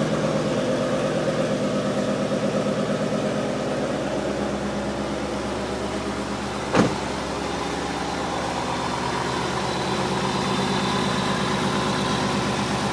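A Brenspeed B326 stroker V8 (326 cubic inches, built on the Mustang GT's 4.6 L three-valve block) idling steadily on its first run after being installed. One sharp snap is heard about halfway through.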